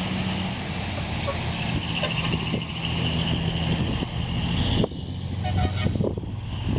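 Large decorated trucks' diesel engines running as they drive past, with heavy wind noise on the microphone. The wind noise drops off suddenly about two thirds of the way through.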